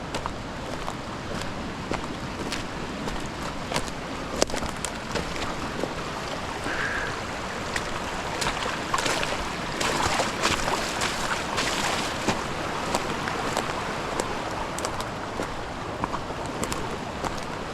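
Steady rush of river water, with scattered sharp ticks and taps throughout.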